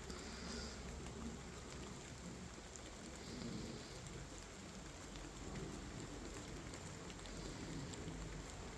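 Faint, steady background hiss with a low hum underneath and no distinct events.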